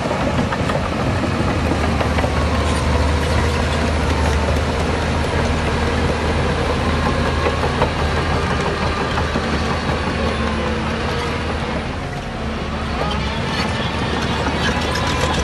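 Heavy diesel earthmoving machinery running steadily with a strong low engine hum and a faint wavering squeal above it; the engine eases off briefly about twelve seconds in, then picks up again.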